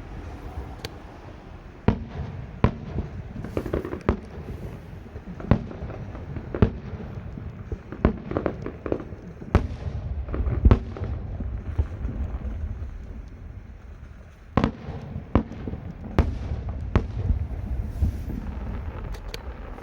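A fireworks display: a string of sharp bangs at irregular intervals, a second or so apart, over a continuous low rumble. There is a short lull about two-thirds of the way through.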